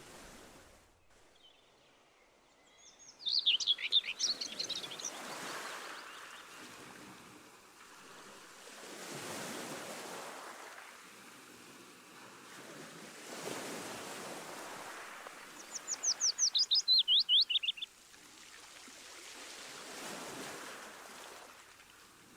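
Ocean waves washing in and drawing back, swelling about every four seconds, with a songbird singing two quick rattling trills of rapid falling chirps, about three seconds in and again past the middle.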